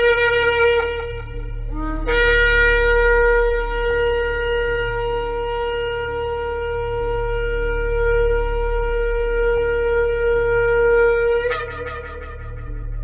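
Shofar being blown: a short blast that stops, then after a brief break a long steady blast held for about nine seconds. The long blast ends in a short upward break near the end, over a faint low steady hum.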